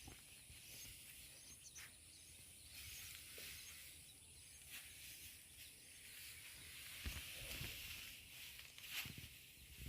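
Faint outdoor ambience: a thin high hiss with a steady high-pitched whine, and a couple of soft knocks near the end.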